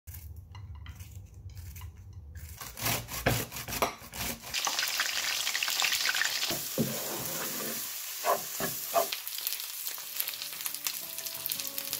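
Whole bitter gourds (karela) sizzling as they shallow-fry in hot oil, with metal tongs clicking against them and the pan as they are turned. The sizzle starts a couple of seconds in and is densest near the middle.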